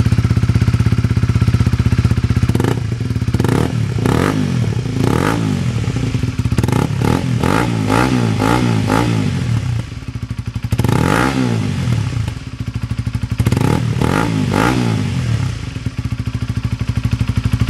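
Honda CBR125R's single-cylinder four-stroke engine, breathing through a Black Widow aftermarket silencer, idling and then blipped repeatedly: a string of quick revs that rise and fall, with a bigger rev about two-thirds of the way through, before settling back to a steady idle near the end.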